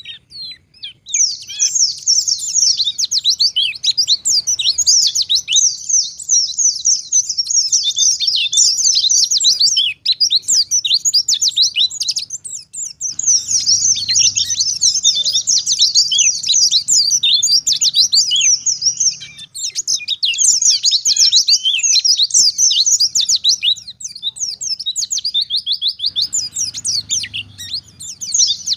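White-eye (pleci) singing a fast, unbroken twittering song of rapid high notes, pausing briefly twice.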